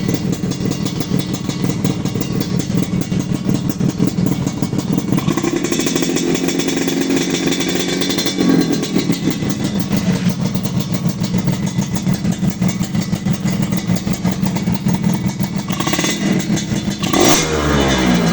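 Modenas Dinamik two-stroke motorcycle engine running through an aftermarket racing exhaust, idling steadily. It is revved up from about five seconds in for a few seconds, then blipped again near the end, falling back to idle each time.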